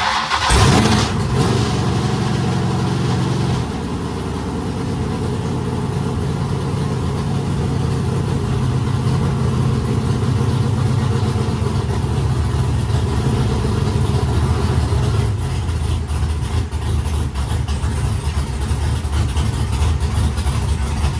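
A 1970 Ford Maverick's engine starting abruptly, running fast for about three seconds, then settling into a steady loud idle.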